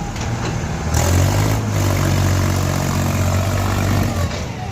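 Tractor engine running, getting louder and heavier about a second in, holding a steady low drone, then easing off near the end.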